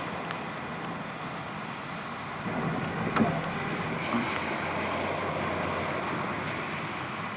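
Steady rush of heavy thunderstorm rain and wind, a little louder about two and a half seconds in.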